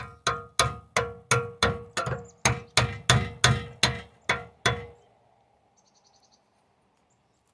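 Hammer striking a metal exhaust part: about fifteen steady blows, roughly three a second, each ringing briefly. The hammering stops a little before five seconds in.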